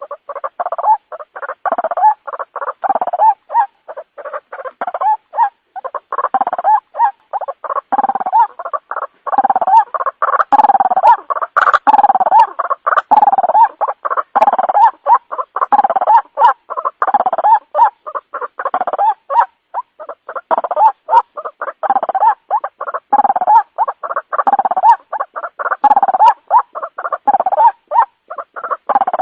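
White-breasted waterhen (ruak-ruak) lure call: a fast, unbroken run of short repeated call notes, several a second, of the kind played to draw waterhens in at night.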